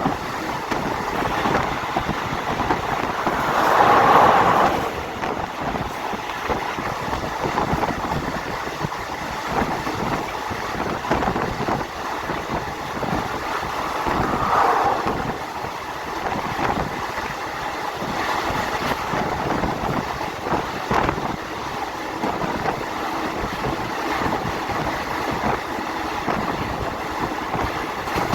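Passenger train running along the track, heard from on board: a steady rush of wheel and wind noise that swells louder about four seconds in and again around fourteen seconds.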